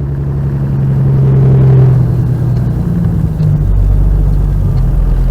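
Heavy truck's diesel engine running under load, growing louder over the first two seconds. About three and a half seconds in it drops to a deeper, lower rumble.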